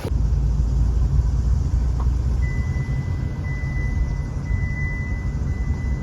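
Steady low rumble of a car on the move, with a faint thin high tone joining about two and a half seconds in.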